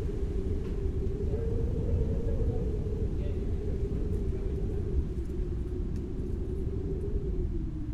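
Steady low rumbling noise with a droning hum that slowly wavers up and down in pitch, a continuous white-noise bed.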